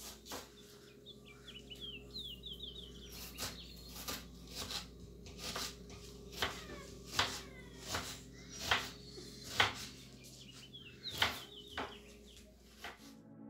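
Birds chirping: short sharp calls about once a second, with a quick run of high falling notes near the start and again near the end, over a steady low hum.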